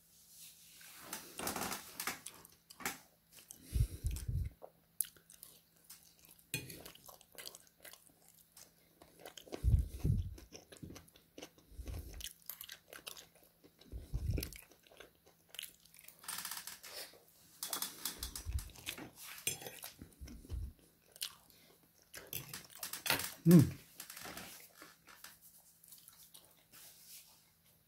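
A person chewing mouthfuls of oven chips, spaghetti and fish cake close to the microphone, with wet crunching and biting in irregular bursts and a few short low thuds.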